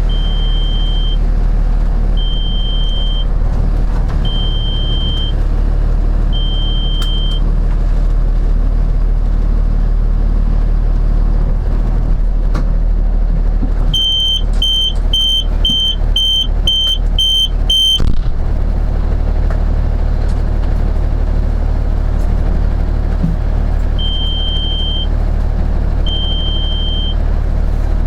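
Fire engine's engine running with a steady low rumble heard from inside the cab, while an electronic warning beeper sounds: one beep about a second long every two seconds, quickening to about two short beeps a second for a few seconds in the middle, then back to the slower pace.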